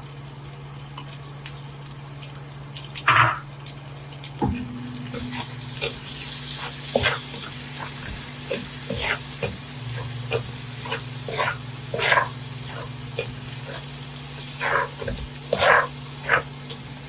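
Minced garlic frying in melted butter in a pan, a sizzle that grows louder about five seconds in, with scattered small pops and crackles as the garlic starts to brown. A steady low hum runs underneath.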